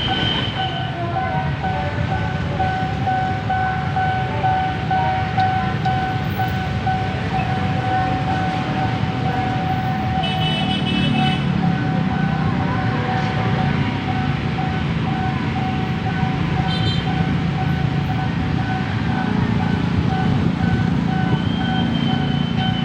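Railroad level-crossing warning signal ringing in a steady repeating electronic tone over idling and passing road traffic. A short high-pitched beep comes about ten seconds in.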